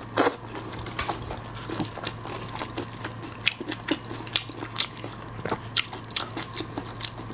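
Close-miked mukbang eating sounds: crunching, chewing and mouth smacks on shrimp, with one louder crunch just after the start and many short clicks after it. A steady low hum runs underneath.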